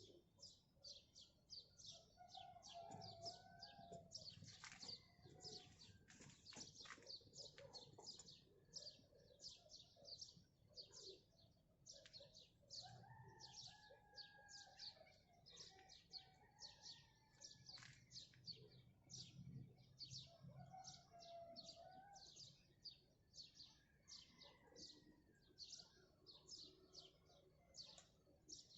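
Many small birds chirping in quick succession, faint, with a few slower, lower-pitched calls mixed in now and then.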